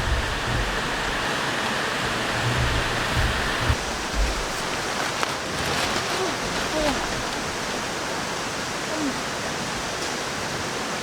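Mountain stream rushing steadily close by, an even wash of water noise.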